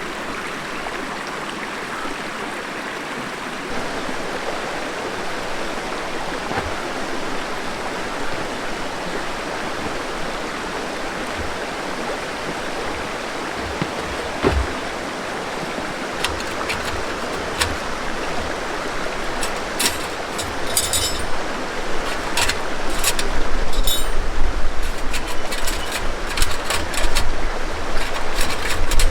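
A river flowing with a steady rush of water. In the second half, a run of sharp clicks and knocks joins it, and near the end louder low thumps build up over the water.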